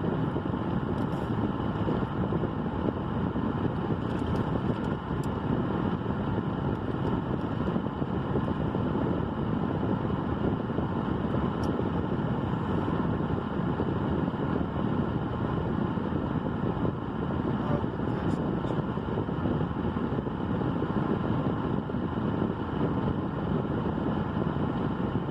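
Steady low rumble inside a parked car, with a few faint clicks.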